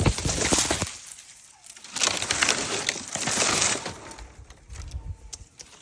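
Dry leaves crackling and rustling as they are handled, in two loud bursts about two seconds apart, then a few lighter crackles.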